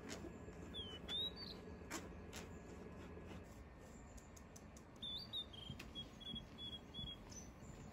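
A small bird chirping: a few short high notes about a second in, then a longer run of chirps from about five seconds in. Under the chirps are scattered light taps and a soft rustle as flour is shaken through a metal mesh sieve and then folded into batter.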